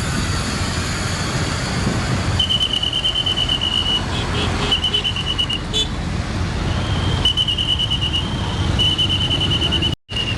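Steady road traffic with passing truck engines, joined from about two seconds in by a shrill high trilling tone, like a pea whistle, sounding in several long stretches. The sound cuts out briefly near the end.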